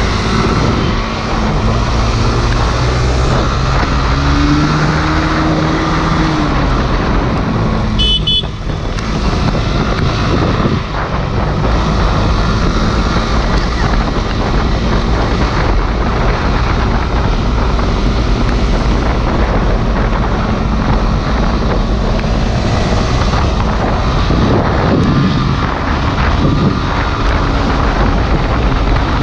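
Small motorcycle engine running at speed, its pitch climbing and falling as it revs through the gears, under heavy wind noise on the microphone. A brief high beep sounds about eight seconds in.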